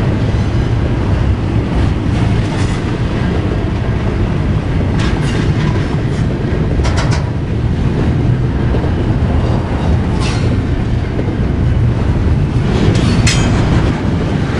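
BNSF double-stack intermodal freight train rolling past close by: a loud, steady heavy rumble of container-laden well cars, broken by a few sharp clanks.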